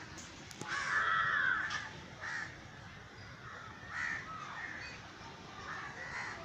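Birds calling, with a longer, louder call about a second in and several shorter calls after it.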